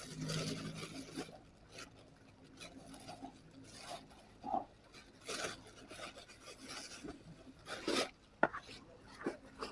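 Irregular rubbing and rasping scrapes, a string of uneven strokes.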